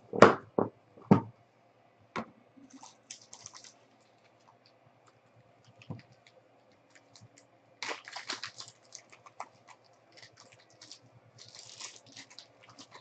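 Trading card box and packs being handled and opened by hand: a few sharp knocks about a second in, then scattered bouts of crinkling and rustling of wrappers and cards.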